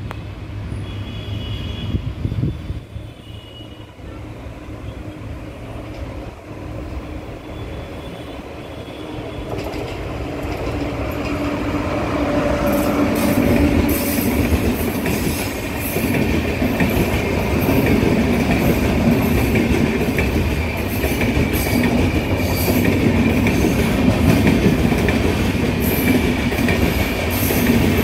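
Indian Railways express of LHB coaches hauled by a WAP-7 electric locomotive approaching and rolling past at close range. The rumble of wheels on rail grows over the first ten seconds or so, then holds loud and steady. Rapid clicks of wheels crossing rail joints and a steady high wheel squeal run over it.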